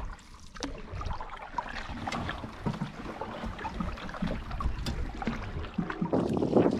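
Water splashing and trickling around a canoe as paddles dip, with small knocks and drips, and a louder rush of noise near the end.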